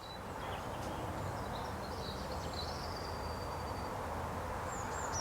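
Outdoor ambience: a steady low background rumble with a few faint bird chirps.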